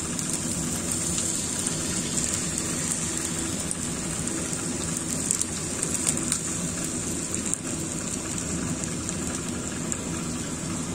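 Fried rice with shrimp, chicken and diced vegetables sizzling in hot oil in a wok: a steady frying hiss with scattered small crackles.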